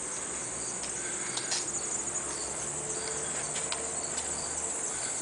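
Insects chirping steadily: a continuous high trill with shorter chirps repeating over it, and a few faint clicks.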